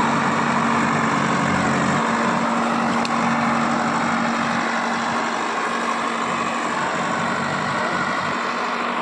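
Heavy diesel engine running steadily, with a constant low hum.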